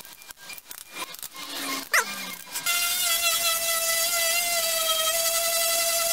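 Scraping and picking at an old decal on a painted motorbike panel, with irregular scratches and a brief squeak. About two and a half seconds in, a steady high-pitched whine starts and holds.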